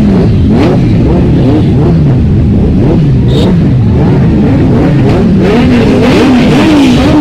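Several vehicle engines revving loudly and continuously, their pitch rising and falling about once a second with overlapping blips.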